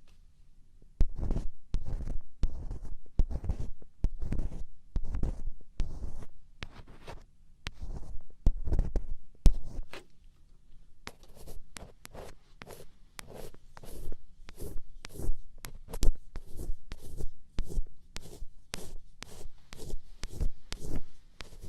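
Ear pick scraping inside an ear canal: a run of short scratching strokes, roughly two a second, with a brief lull about halfway through.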